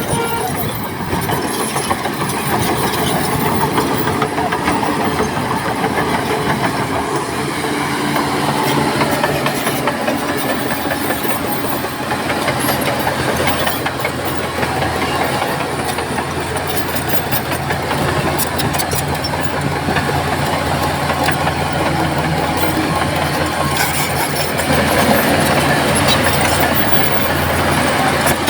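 Bulldozer's diesel engine running steadily under work, with the clanking clatter of its steel tracks over it.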